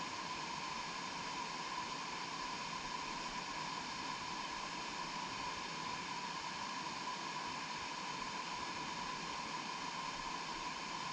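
Steady rushing noise with a constant high-pitched tone running through it.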